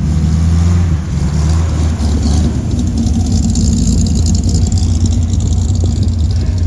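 Car engine running loudly, a steady low-pitched note.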